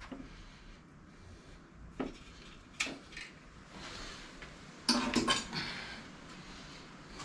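Metal clinks and knocks from hand tools and mower parts being handled during disassembly: single knocks about two and three seconds in, then a short cluster of rattling clanks about five seconds in.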